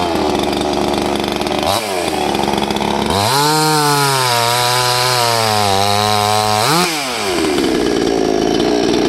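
Salem Master 62cc two-stroke chainsaw running at high throttle through a log, its engine note sagging slightly under load. It gives quick throttle blips and then drops back to a lower idle near the end.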